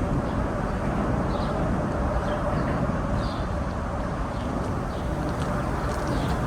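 Steady city traffic rumble, with small birds chirping briefly every second or so.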